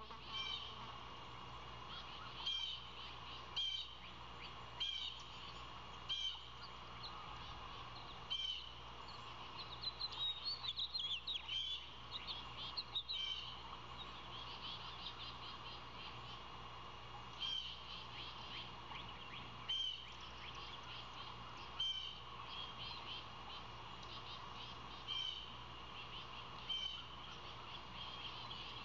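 Birds chirping: short high calls repeating every second or so, with a quicker run of chirps about ten seconds in, over a steady hum.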